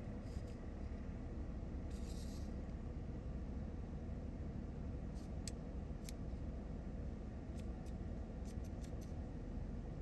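Scattered light clicks and a brief scrape from small plastic toy parts being handled, over a steady low background hum.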